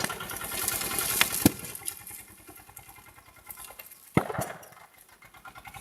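Tractor engine running with a fast, even chugging. A few sharp cracks stand out, the loudest about four seconds in.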